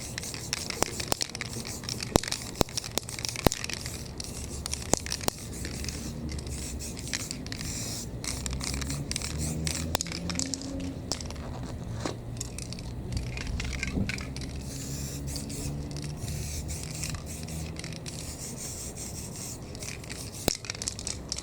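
Hand work on a spray-paint stencil painting: scraping and rubbing on the painted surface, with scattered sharp clicks and patches of high hiss.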